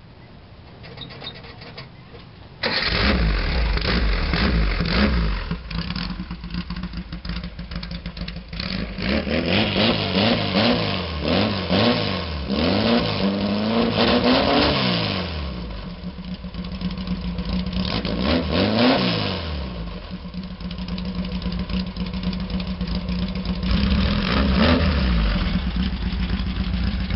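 Volkswagen engine firing up through a new aftermarket exhaust with no baffle, about three seconds in. It then idles and is revved several times, rising and falling in pitch, and runs pretty loud.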